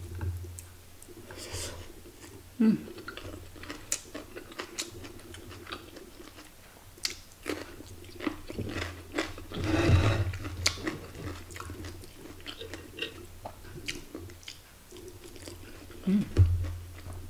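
A person chewing and biting food close to the microphone, with many short wet mouth clicks and crunches. One louder crunchy stretch comes around ten seconds in, as a fresh cucumber slice is bitten.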